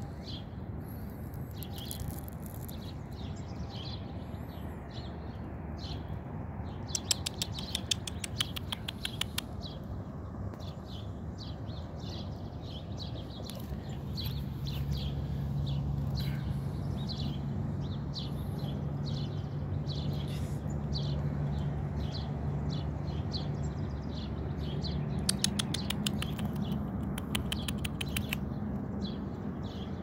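Birds chirping in short high notes, with two fast trilling runs, one about a quarter of the way in and one near the end. A low steady hum sets in about halfway through.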